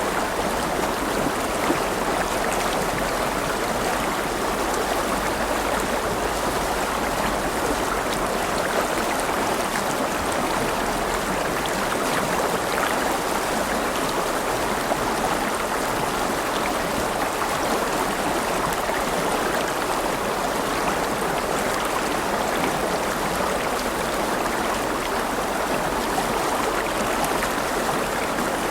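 River water flowing steadily over stones, an even rushing and babbling with small splashes.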